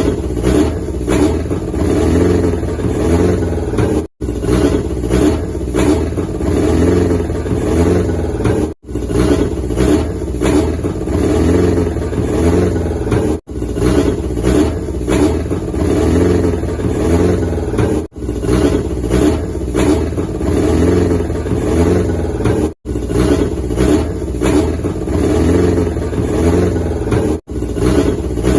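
An old engine running steadily with a regular pulsing beat, broken by a brief silent gap about every four and a half seconds, as if a short recording were looped.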